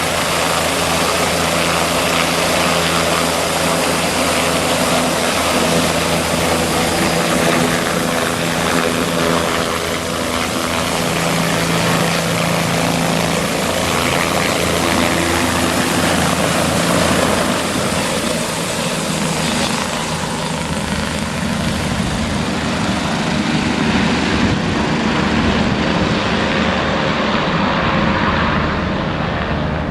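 Bell 407 helicopter's turbine engine and rotor running loud and steady, with an even low beat from the rotor under a broad hiss; the high-pitched hiss fades over the last few seconds.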